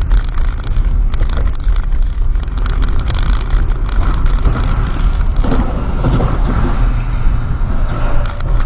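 Car driving with a steady engine and road rumble, heard through a dashcam microphone.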